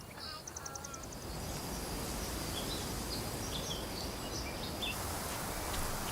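Wetland ambience: a steady wash of outdoor noise with scattered small bird chirps, including a quick high trill about half a second in.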